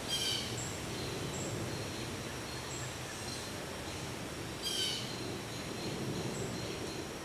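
Wind rustling through the leaves of tall trees, a steady hiss, with a bird calling briefly twice, at the start and again about five seconds in.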